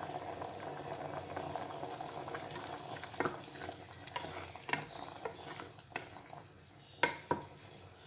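A spoon stirring a pot of thick, simmering potato kurma, with a steady bubbling hiss that fades through the second half. Several sharp taps of the spoon against the pot come from about three seconds in, two close together near the end.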